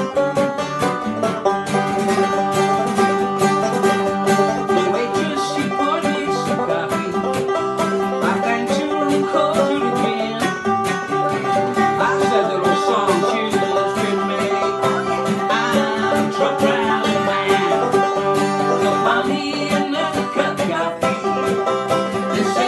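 Banjo and guitar picking a bluegrass-style country tune, a steady stream of fast plucked notes.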